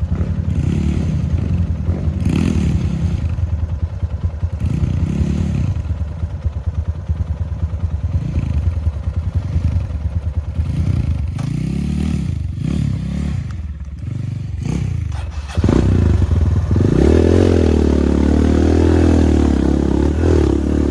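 Suzuki TS125X two-stroke dirt bike engine under way, its revs rising and falling again and again as the throttle is worked, with clatter from the bike. About three-quarters of the way through it turns louder and steadier.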